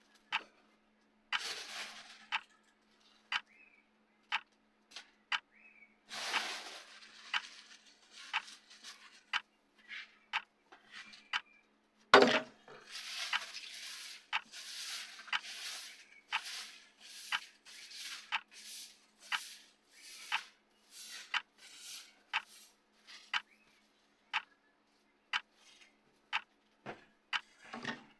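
Clock-style ticking sound effect of a countdown timer, a short tick about once a second over a faint steady hum. A sharp knock comes about twelve seconds in, and irregular noisy rustling bursts are mixed in, mostly in the middle of the stretch.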